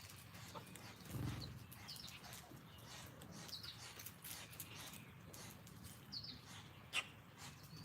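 Small wild birds chirping a few times with short, high, downward-sliding notes over faint outdoor background, with a brief low rumble about a second in and a sharp click near the end.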